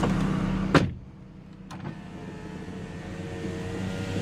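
A small electric motor in a 2007 Mitsubishi Galant's cabin whirring steadily, then stopping with a click just under a second in. The idling V6 engine's hum stays faintly underneath.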